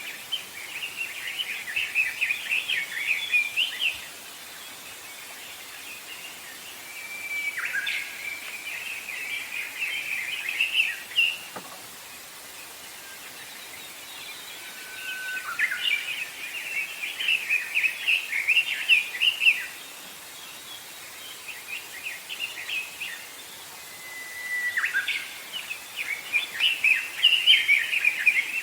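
A songbird singing repeated phrases, each a short whistled note followed by a rapid chattering warble lasting a few seconds, about every eight seconds, with a quieter phrase in between, over a faint steady outdoor hiss.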